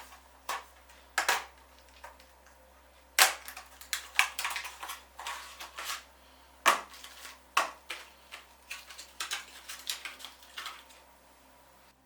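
Irregular sharp clicks, taps and knocks of hard plastic and metal computer parts being handled and fitted, the loudest about three seconds in.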